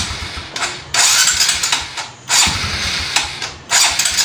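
Motorcycle electric starter cranking the engine in three short bursts about a second apart, without the engine catching. It will not fire because the spark plug gap has been set too close.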